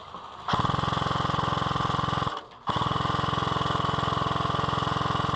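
Airsoft electric light machine gun firing on full auto in two long bursts, with a brief break a little past halfway, its gearbox cycling in a fast, even rattle.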